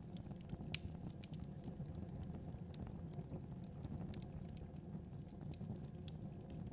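Wood fire burning: a steady low rumble of flames with irregular sharp crackles and pops from the burning logs, one louder pop about a second in.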